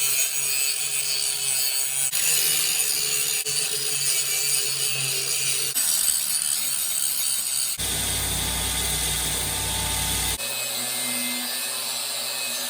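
Workshop power tools running steadily in a string of short edited clips, with the rasp of cutting or grinding. The sound changes abruptly every few seconds, with a heavier low rumble in one clip near the middle-to-end.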